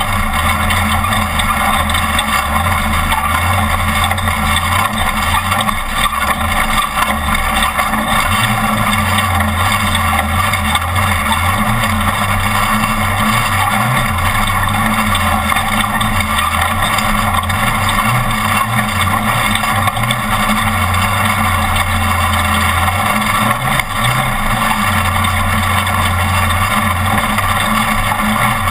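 Off-road race truck driving at speed: steady, loud engine and running noise with a low rumble that comes and goes.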